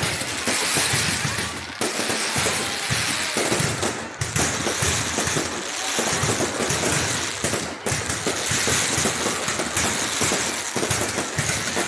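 Fireworks display going off in a dense, unbroken run of bangs and crackles, many per second.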